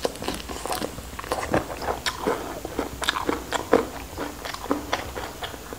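Close-miked biting and chewing of raw shrimp: an irregular run of short, wet crunches and clicks.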